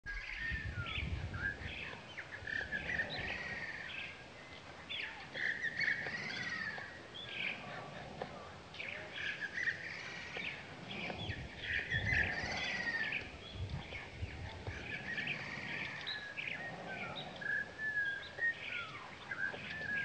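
Small birds calling continuously: many overlapping short chirps and arched whistled notes from several birds. A low rumble comes about a second in and again around the middle.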